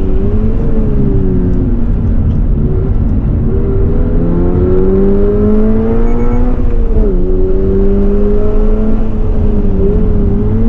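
Subaru BRZ's 2.4-litre flat-four engine heard from inside the cabin at speed on track. The revs fall off the throttle, then climb steadily under full throttle, drop sharply at an upshift about seven seconds in, and then hold fairly steady.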